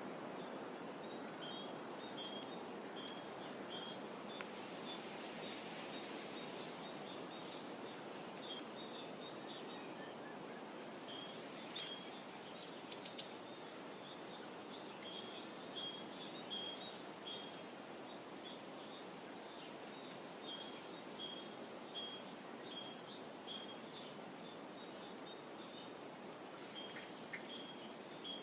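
Small songbirds chirping and singing in short repeated high phrases throughout, over a steady soft wash of gently rippling water.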